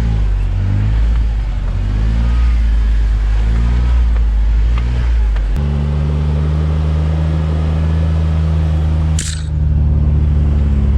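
Jeep engine pulling under load as it drives along a slippery, snowy trail. Its pitch rises and falls for the first half, then holds steady about halfway through, with a short dip and a click near the end.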